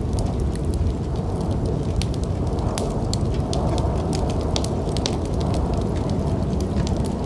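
Fireplace fire crackling, with frequent small sharp pops over a steady low rumble.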